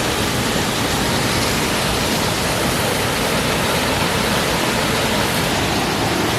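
Steady, loud rushing of the Orakkuzhi waterfall: an even wash of water noise without a break.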